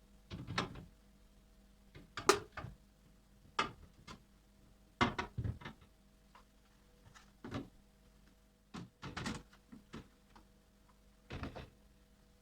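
Household objects being handled: a dozen or so irregular knocks and clicks, like containers set down and a door or drawer opened and closed, the sharpest about two and five seconds in, over a faint steady hum.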